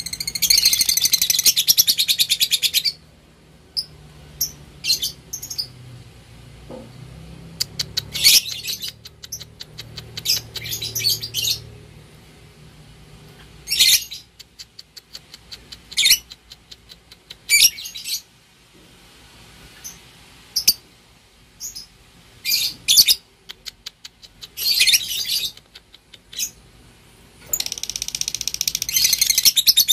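Lovebird chattering: a long, very fast, high-pitched 'ngekek' trill at the start and another near the end, with short scattered chirps in between.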